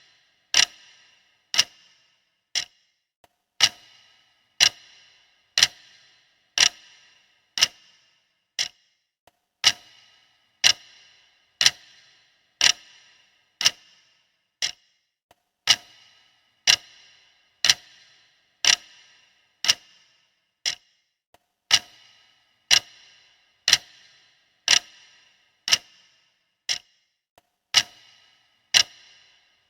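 A clock ticking steadily, about one sharp tick a second, each tick ringing briefly.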